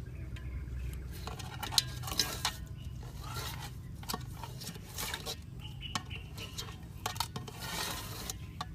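Kitchen utensils and dishes clinking, knocking and scraping in an irregular clatter of food preparation, over a low steady hum.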